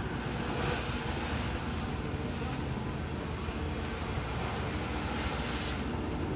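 A ship's engine running with a steady low rumble while sea water rushes and hisses around the hull in heavy seas, the rush of water starting about half a second in and cutting off near the end.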